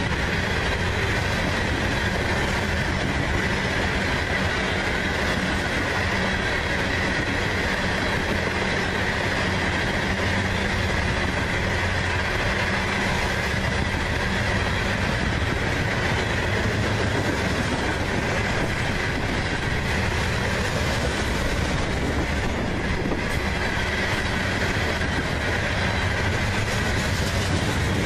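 A long string of loaded coal hopper cars rolling past at about 45 mph: a steady, loud rumble of steel wheels on rail, with a high steady tone running over it.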